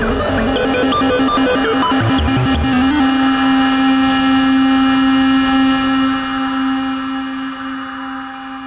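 Analog synthesizer jam: a fast sequenced pattern of synth notes with percussive hits stops about three seconds in. One held synth note is left, fading slowly away.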